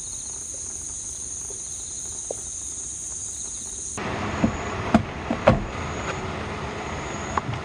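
Insects chirring in a steady high drone. About four seconds in, this cuts abruptly to the steady hiss of rain with irregular louder drips tapping.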